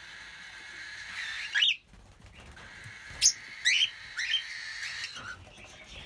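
Birds calling: four short rising chirps, the second one sharp and loud, over a steady background chatter of other birds.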